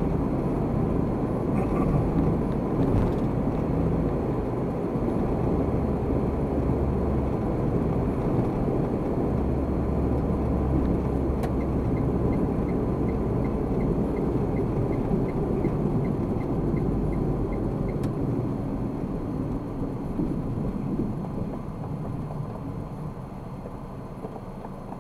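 Car driving, heard from inside: steady low road and engine rumble that grows quieter near the end. In the middle there is a faint regular ticking, about two ticks a second, for several seconds.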